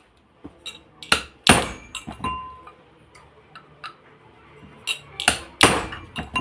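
Metal tools and exhaust-fan motor parts clinking and knocking as they are handled, in a series of sharp taps and clinks. The loudest knocks come about a second and a half in and again about five and a half seconds in.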